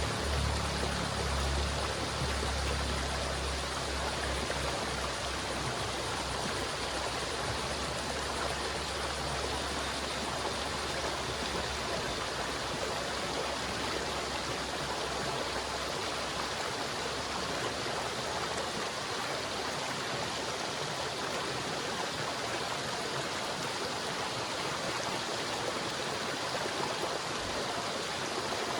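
River water flowing steadily, an even rushing noise. A low rumble underneath fades out about halfway through.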